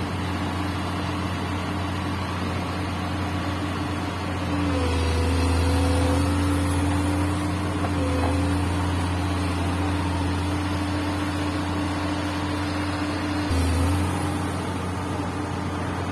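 Komatsu PC200 hydraulic excavator's diesel engine running steadily, loading up and getting louder twice as the machine works, from about a quarter of the way in for a few seconds and briefly again near the end, with a hiss over the top while it works.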